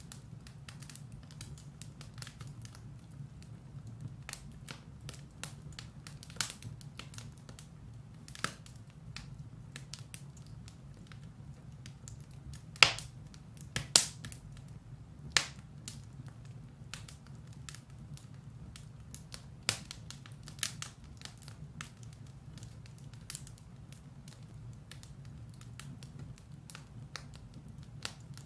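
Firewood burning in a fireplace, crackling with irregular sharp pops over a steady low hum. The loudest pops come about 13 and 14 seconds in.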